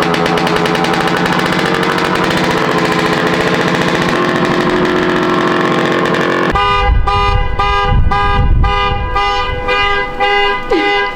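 400cc snowmobile engine on a lightweight go-kart running loud as the throttle is fluttered. About halfway through it changes from an even, continuous note to an uneven pulsing about twice a second.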